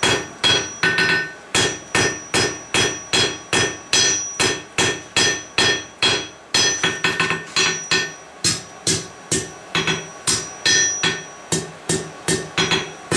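Hand hammer striking steel on an anvil in a steady rhythm, about three blows a second, each blow followed by a short metallic ring: forging a fishtail end on a poker.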